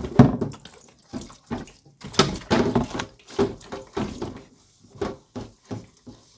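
Water splashing and sloshing in a basin in short, irregular bursts, from washing by hand.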